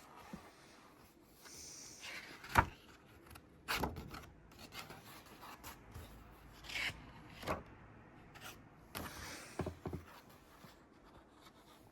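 Handling noise: rubbing and scraping against the microphone with scattered knocks, the sharpest about two and a half seconds in.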